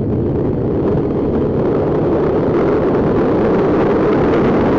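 Motorcycle riding: engine running steadily under heavy wind rush on the camera microphone.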